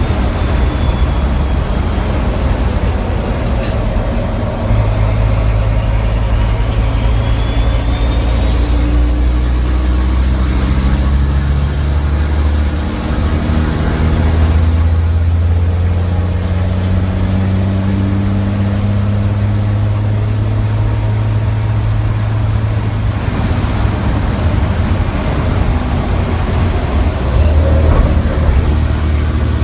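Racing truck's diesel engine running hard under load, heard from inside the cab, with a high turbo whistle. The whistle climbs slowly in pitch as the truck gathers speed, drops sharply about two-thirds of the way through as it slows for a corner, then rises again near the end.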